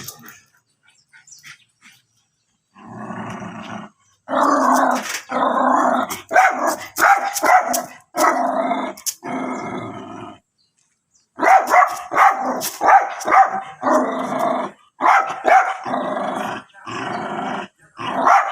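Small dogs barking and growling in long, dense runs, starting about three seconds in after a quiet opening, with short breaks between the runs.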